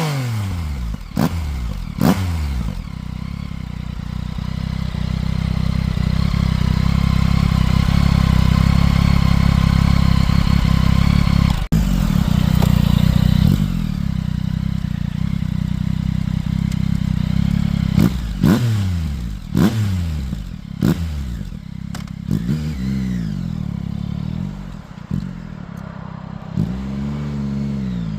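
Yamaha CP3 three-cylinder engine through a Spark aftermarket exhaust, revved: a few quick blips with sharp cracks, then held at high revs for about nine seconds before dropping off suddenly. Further throttle blips rise and fall over the idle.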